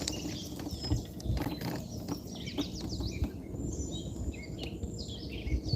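Birds chirping and calling, several short rising and falling chirps, over a low rumble with scattered brief clicks and knocks.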